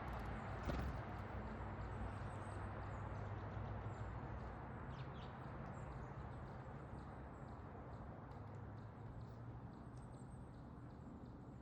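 Backyard bird-feeder ambience: a steady low background rumble with a single knock a little under a second in. A few faint, short, high bird chirps come through, the clearest pair about five seconds in.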